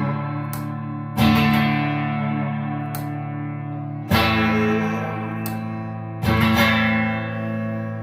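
Guitar music: slow chords struck about every two to three seconds, each left to ring and fade before the next.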